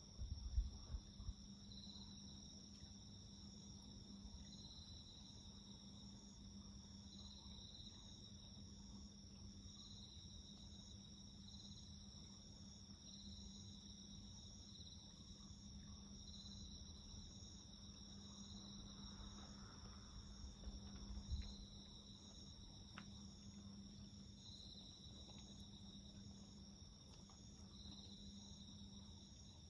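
Night insects chirping faintly in a garden: one steady high trill and another chirp pulsing about every second and a half. A low steady hum runs underneath, with a soft low thud right at the start and another about twenty seconds in.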